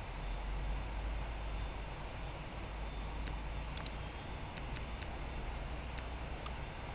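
Jet aircraft engines giving a steady rumble and hiss; the deep rumble eases about halfway through. A few sharp clicks sound in the second half.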